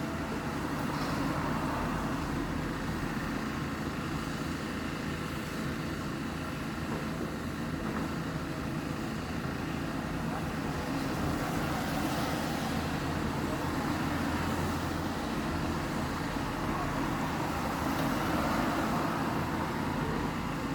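Steady low rumble of motor engines with a noisy hiss, swelling about halfway through and again near the end.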